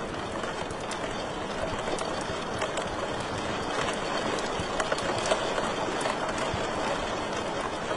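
Wood fire crackling in a fireplace: a steady rushing hiss with many small irregular pops and snaps.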